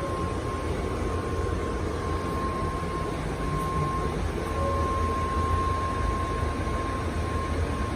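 Steady running noise heard inside an N700S Shinkansen carriage: a low rumble with a faint, steady high whine over it.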